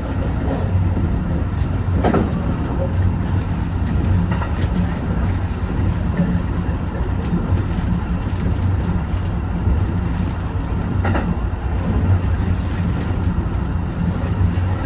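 HB-E210 hybrid diesel train running along the line: a steady low rumble with three short sharp clacks from the wheels on the track, about two, four and eleven seconds in.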